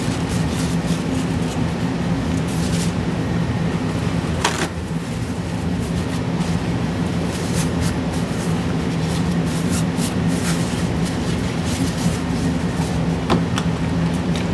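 A steady mechanical hum with a few fixed pitches, under scattered light clicks and taps from handling.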